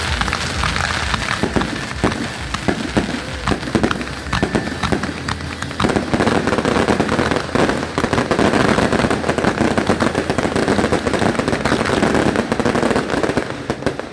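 Aerial fireworks bursting in a dense barrage of bangs and crackling, growing thicker and louder about six seconds in.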